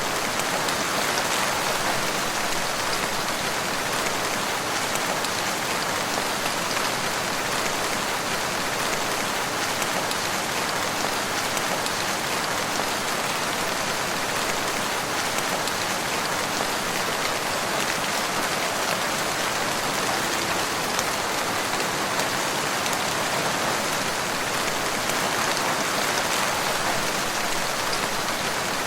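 Steady rain falling in woodland, an even hiss with many fine drop impacts and no distinct events.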